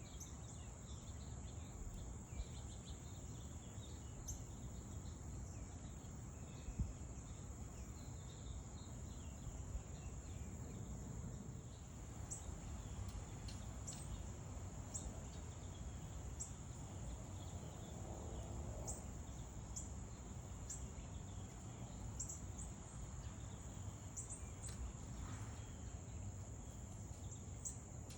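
A steady high-pitched insect trill, like crickets, goes on under scattered short bird chirps that come more often in the second half, over a low background rumble. A single thump stands out about seven seconds in.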